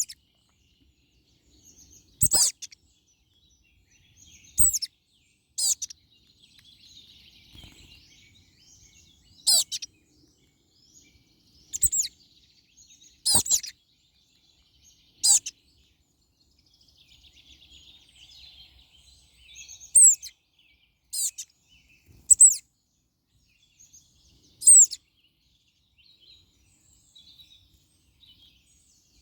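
European crested tits calling: about a dozen short, sharp, high notes at irregular intervals, with softer, quieter high twittering between them.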